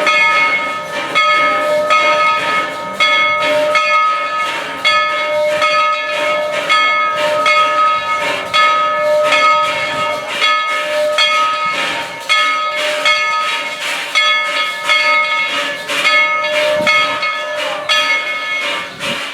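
Steam locomotive bell on Baldwin #190 ringing steadily, a little over one strike a second, each stroke ringing on into the next, as the train pulls out. A hiss of steam runs underneath.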